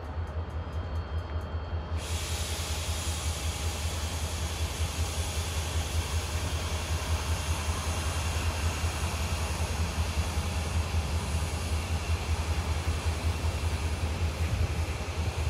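Freight train of tank cars giving a steady low rumble, with an even hiss coming in about two seconds in.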